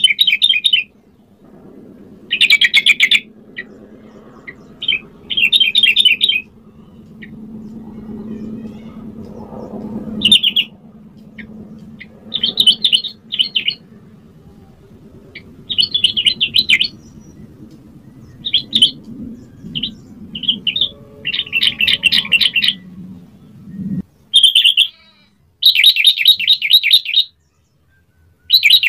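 Yellow-vented bulbul singing short, rapid, bubbly phrases, repeated every couple of seconds with brief pauses between.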